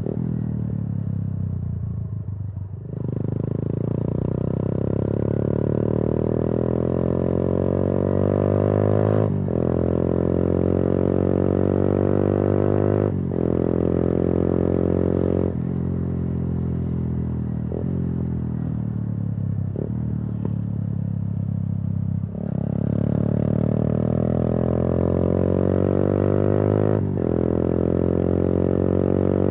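Yamaha YBR 125G's single-cylinder four-stroke engine through an aftermarket Akrapovič exhaust, under way. It slows off the throttle, then pulls away rising in pitch with a short dip at each upshift. It winds down again with a couple of brief interruptions as it drops through the gears, then accelerates once more.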